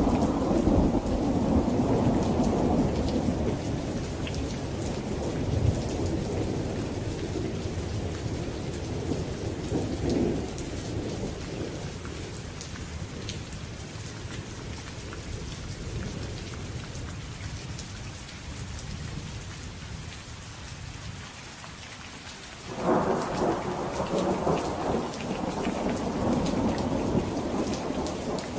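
Steady rain falling, with rolling thunder: a loud rumble that dies away over the first ten seconds or so, then a sudden new thunderclap rolling on about three-quarters of the way through.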